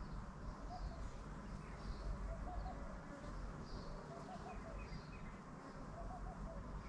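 Birds calling: scattered short high chirps and, several times, a quick group of three or four soft cooing notes like a dove's, over a steady low rumble.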